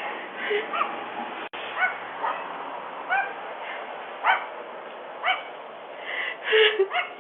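A small dog barking and yipping in short, high-pitched yaps, spaced about half a second to a second apart, picked up by a doorbell camera's microphone.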